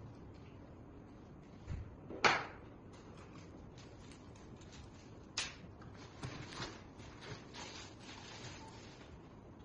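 Scattered knocks and clicks, like hard objects being handled and set down, over a faint hiss; the loudest comes about two seconds in, another sharp one about five seconds in, then a few smaller ones.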